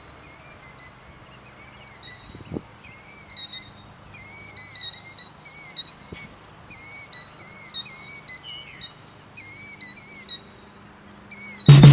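Killdeer calling: a string of short, high, slurred notes, about one or two a second, with a brief pause near the end.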